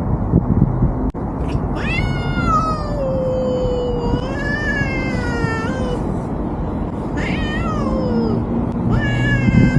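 Cat meowing in a series of long, wavering, drawn-out calls that slide up and down in pitch, starting about two seconds in, over a steady low background rumble.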